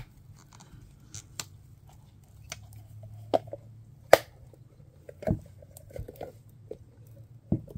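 A silicone mold being flexed and worked off a cured resin pot by hand: scattered rubbery squishes and sharp little clicks, the loudest about four seconds in.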